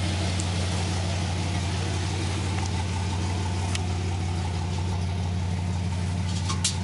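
Chevrolet S-10 Blazer's 4.3-litre V6 idling steadily through its exhaust, a deep, even note that holds without revving.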